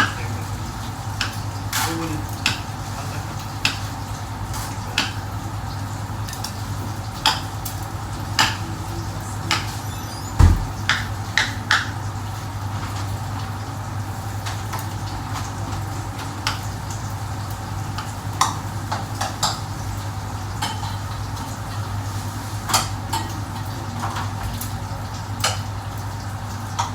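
Pots, pans and metal utensils clinking and knocking, with scattered single clinks every second or two and one heavier thump about ten seconds in, over a steady low hum.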